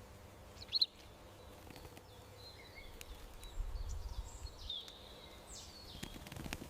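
Small garden birds chirping: one sharp chirp about a second in, then a run of short high chirps and calls, over a faint outdoor background with a brief low rumble in the middle.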